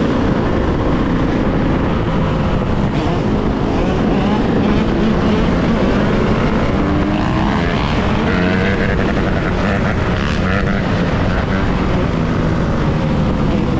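Yamaha YZ125's 125 cc two-stroke single-cylinder engine running on the move, its pitch rising and falling with the throttle.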